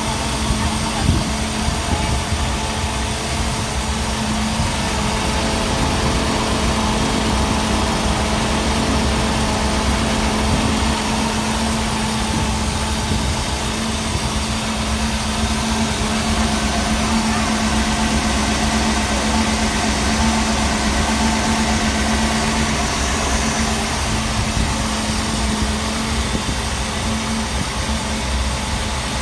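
Mercruiser 5.7-litre V8 marine engine idling steadily, with an even, constant hum.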